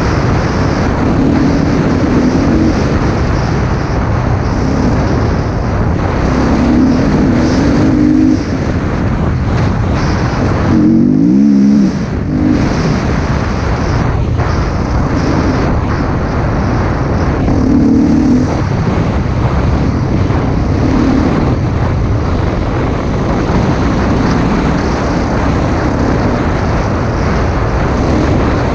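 Husqvarna TC 250 motocross bike engine revving up and down under way, the revs rising and falling every couple of seconds, with a brief drop in pitch about twelve seconds in. Heavy wind noise on the microphone runs under it.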